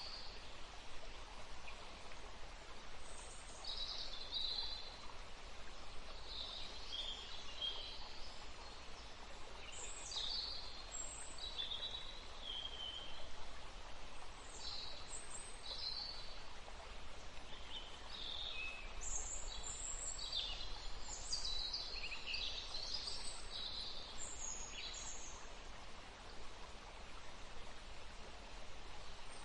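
Birds chirping and calling in many short phrases over a steady background hiss, the calls coming thickest in the second half.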